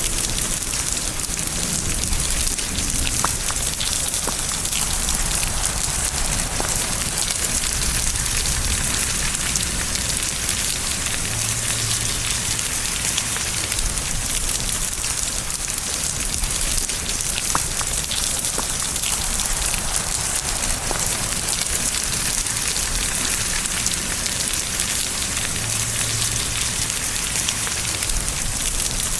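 Steady rain falling, an even hiss with scattered drops ticking, and a faint low rumble swelling briefly twice.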